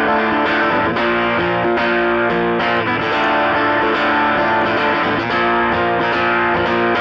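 Song intro: an effects-laden electric guitar plays a riff of picked, ringing notes on its own, without drums or bass.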